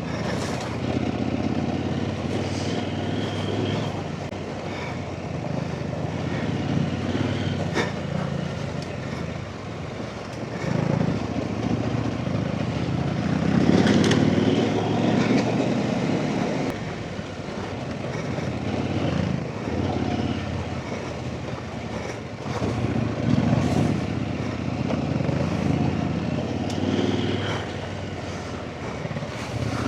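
Off-road trail motorcycle engine running under load while riding a rough, wet lane, the throttle opening and easing so the engine note swells and drops, loudest about halfway through, with occasional knocks.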